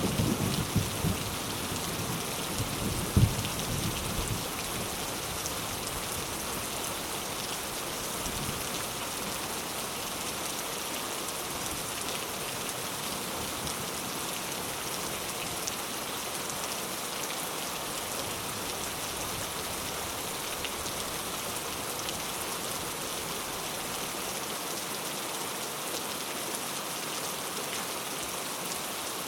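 Heavy rain falling steadily on surfaces. A low thunder rumble dies away over the first few seconds, with one sharp louder crack about three seconds in.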